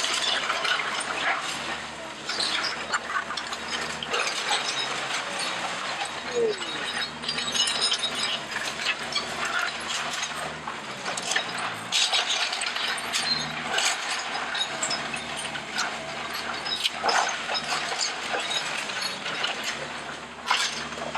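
House demolition: a machine's engine running steadily under a continuous clatter of cracking, snapping and crunching debris.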